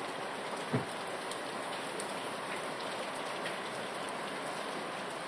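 Steady rain falling on wet pavement and a parked car's bodywork, with scattered ticks of single drops. A short dull thump comes just under a second in.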